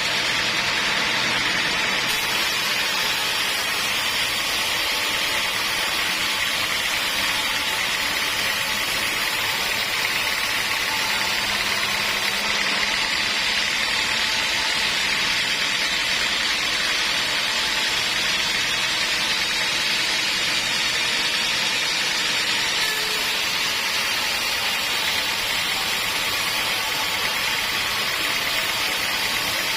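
Homemade band sawmill running steadily, an even noise that doesn't change.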